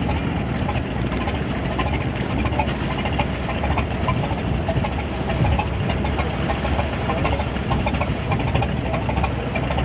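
McCormick-Deering orchard tractor's four-cylinder engine idling steadily and smoothly.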